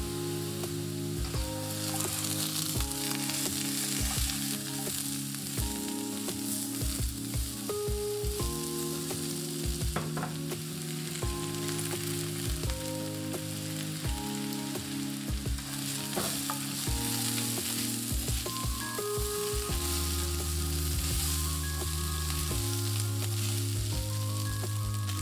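Strips of potato, red bell pepper and chicken breast sizzling in a hot frying pan, with a steady hiss and the repeated scrapes and knocks of a spatula stirring the food. Soft background music plays underneath.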